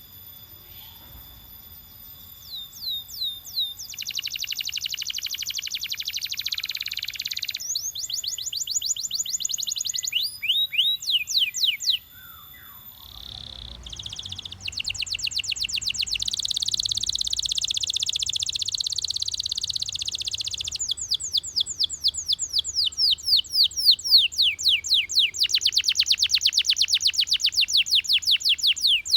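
Belgian canary singing: high held whistles, then long rapid trills of repeated falling notes, with a short pause about twelve seconds in before the trilling resumes.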